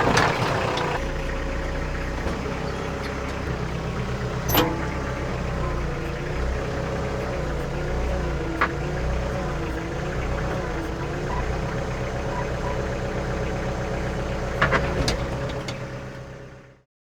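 An engine idling steadily, its pitch wavering a little for a few seconds in the middle. A few sharp knocks sound over it. It fades out about a second before the end.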